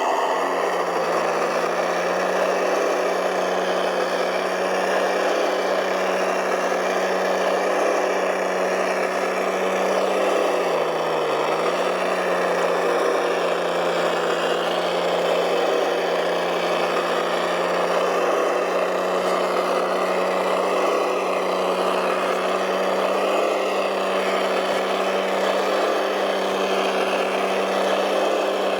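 Small motor of a radio-controlled model machine running steadily at one pitch as a hum, dipping briefly about eleven seconds in as if loaded, then settling back.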